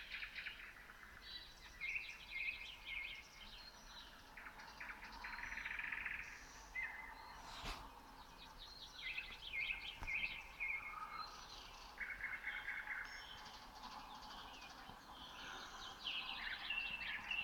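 Nightingales singing: phrases of rapidly repeated notes, one series after another, with a single sharp click about seven and a half seconds in.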